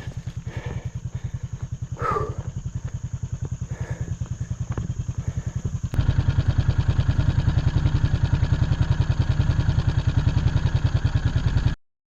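ATV engine running with a steady, fast pulsing beat. It gets louder about halfway through and cuts off suddenly near the end.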